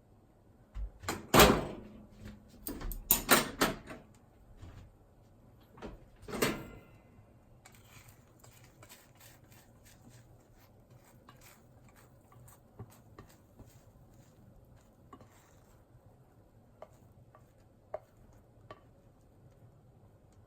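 A frying pan and cooking utensils knocking and clattering, loudest in a cluster of knocks near the start and one more a few seconds later, followed by faint light taps.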